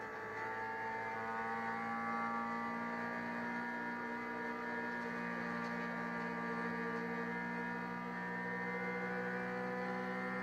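Onboard sound of a Honda EG-chassis Civic race car's engine running hard at high revs, heard from inside the cabin. The pitch dips briefly right at the start, then climbs slowly and steadily as the car pulls through the gear.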